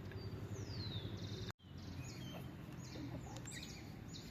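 Small birds chirping: first a falling high note, then several short chirps, over a steady low background hum. The sound drops out completely for a moment about a second and a half in.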